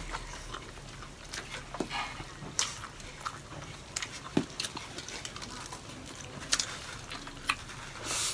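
Eating sounds: chewing and wet mouth smacks, with a scattering of short sharp clicks.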